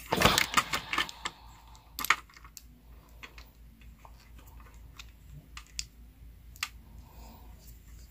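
Plastic parts of a ring light's pan-tilt mount being fitted together and screwed onto the ring lamp: a quick cluster of clicks and knocks in the first second, then scattered single clicks.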